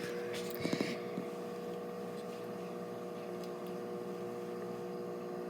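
Microwave oven running with a steady hum, heating chicken nuggets; a few faint short knocks in the first second.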